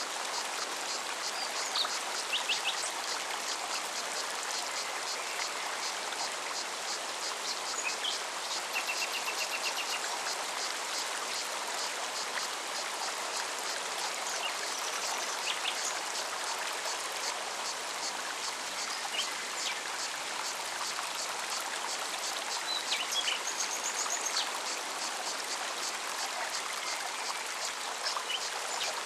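Mountain forest stream running steadily over rocks. Above it a cicada pulses in a fast, even rhythm, with scattered short bird calls.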